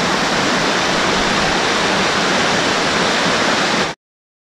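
Steady rush of a waterfall, falling water loud and even, cutting off suddenly near the end.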